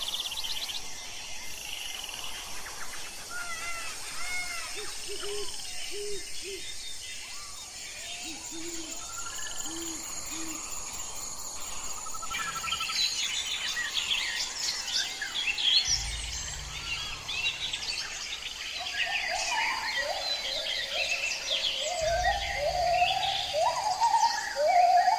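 Many birds calling and chirping, with two short runs of three low notes a few seconds in and a dense, overlapping chorus of chirps building through the second half.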